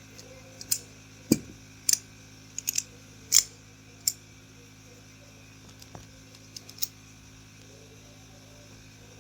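Small pump parts clicking and knocking together by hand as a solenoid water pump is reassembled, a scatter of sharp clicks, most of them in the first few seconds. A steady low hum runs underneath.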